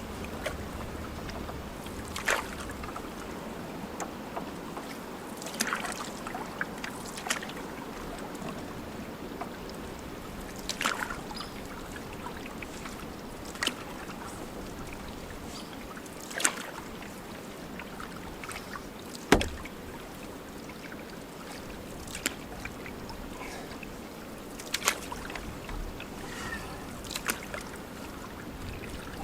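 Canoe being paddled on a river: a steady wash of water with scattered sharp knocks and splashes from the paddles every few seconds, the loudest knock about two-thirds of the way through.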